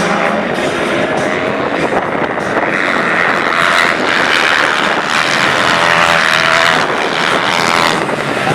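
Racing motorcycle engines running hard on an ice track, a continuous buzz with an engine note rising and falling as they rev, most clearly between about five and seven seconds in.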